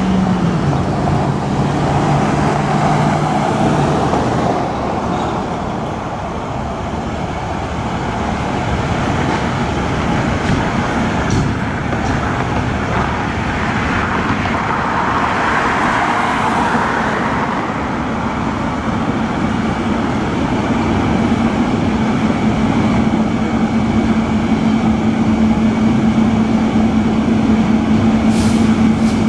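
Road traffic with vehicle engines running steadily; an engine hum holds a steady pitch through the last third.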